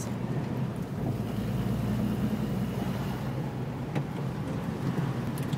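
Car engine running, a steady low hum with a faint hiss of noise over it, and a single click about four seconds in.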